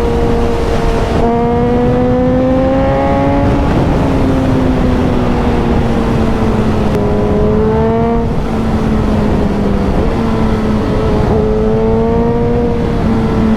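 A 1000cc Suzuki motorcycle engine under way at speed, heard with a heavy rush of wind. The revs climb and drop several times as it pulls through the gears.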